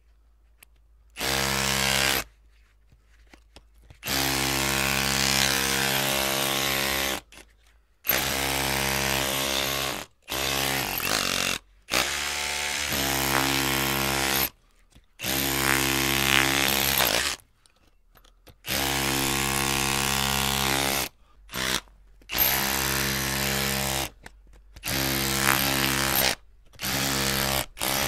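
Electric drill motor running in repeated bursts of one to three seconds, about a dozen times, stopping briefly between each run.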